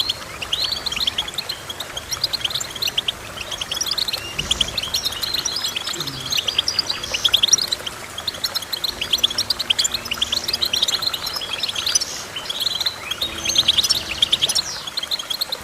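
Small songbird singing a continuous rapid twittering song of quick high chirps and trills, typical of a finch such as a goldfinch.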